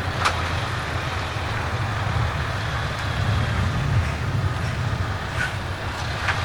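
Heavy truck's diesel engine running at low revs, a steady deep rumble, with a few short sharp clicks.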